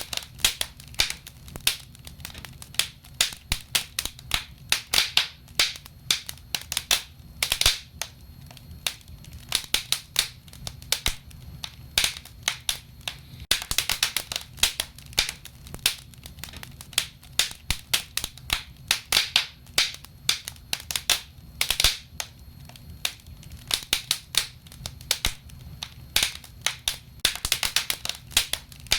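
Wood burning in a fireplace, crackling and popping irregularly, several sharp snaps a second with denser bursts now and then, over a low steady rumble.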